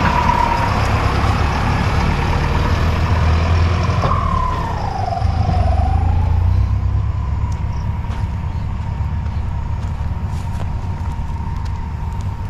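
Tractor diesel engine running steadily with a low rumble, over a whine that dips in pitch and comes back up about four to six seconds in, then holds steady.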